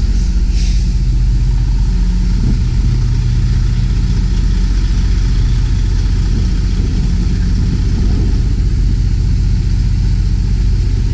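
Semi tractor's diesel engine running steadily at low speed, a deep even hum.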